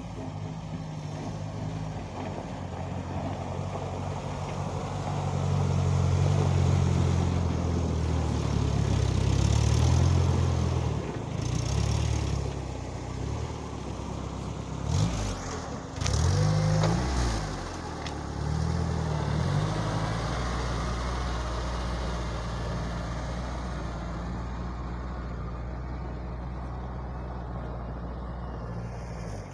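Homemade mini-tractor's engine working while it pushes snow with its blade. The engine swells louder for several seconds, revs up and down quickly a few times around the middle, then settles to steady running.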